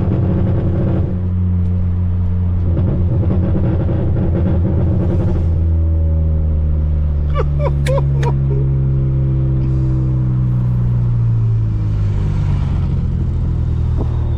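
Volkswagen Polo GTS's Stage 2 tuned turbocharged four-cylinder with a sport exhaust, pulling hard with a rough, rasping note for the first few seconds, then easing off to lower revs with the pitch slowly falling.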